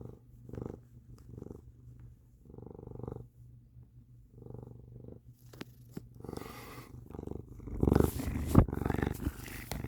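Domestic cat purring close to the microphone, coming and going in pulses with each breath. Near the end it gets louder, with rustling and a sharp knock as the cat rubs against the phone.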